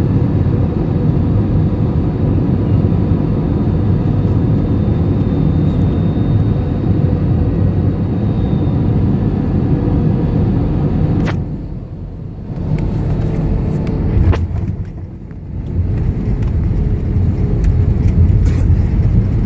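Airliner cabin noise on approach: a steady, loud low rumble of jet engines and airflow with a faint steady whine. Twice past the middle a sharp click is followed by a brief drop in the rumble.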